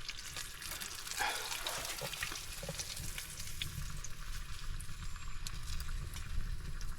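Burgers sizzling in a frying pan over a campfire: a steady hiss with many small crackles.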